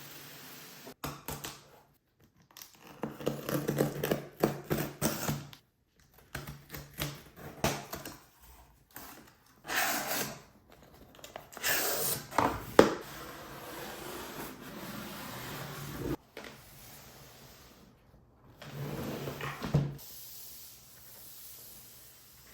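Packaging of a Dyson Airwrap being handled and opened: irregular rustling and scraping with sharp clicks and knocks, the loudest knock about two thirds of the way in.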